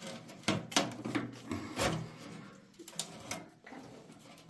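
A handful of irregular knocks and clunks with rubbing and scraping between them, from parts being handled and fitted while a heating stove is installed.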